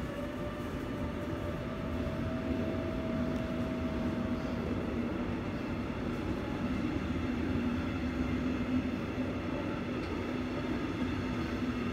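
Red DB Regio passenger train passing on a railway bridge: a steady rolling rumble of wheels on rail with a low hum. A higher whine fades out about four seconds in.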